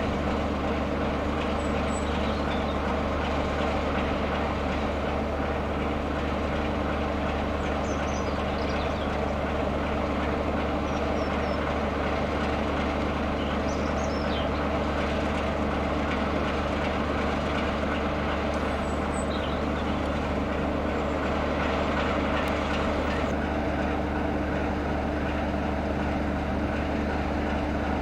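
Class 33 diesel-electric locomotive's Sulzer eight-cylinder engine running at a steady, even note.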